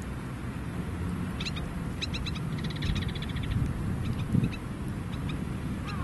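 Small bird calling: a few short high chirps, then a quick trill, then fainter ticking notes, over a steady low rumble. A dull low thump about four seconds in.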